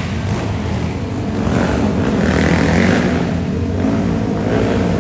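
Monster truck engine running and revving, a loud deep rumble that swells about two seconds in.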